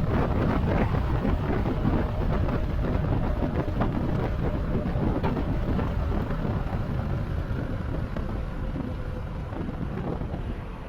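Wind buffeting the microphone with road and tyre rumble while riding an e-bike. It grows quieter toward the end.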